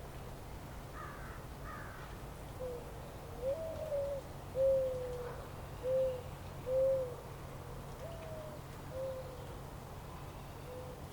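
A bird giving a series of low, soft hooting calls, about eight notes, some of them starting with a step up in pitch, over a faint steady low hum. Two faint higher chirps come about a second in.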